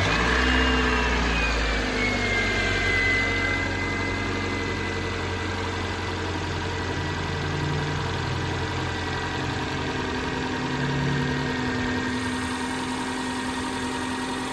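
Toyota Premio's 1ZZ 1.8-litre four-cylinder petrol engine idling just after a start. A high whine drops in pitch over the first few seconds as the revs settle, then holds steady under the engine's even hum.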